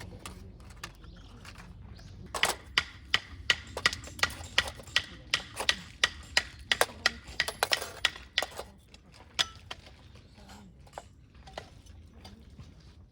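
A quick run of about twenty sharp taps or knocks with a slight ring, about three to four a second, followed by a few scattered taps.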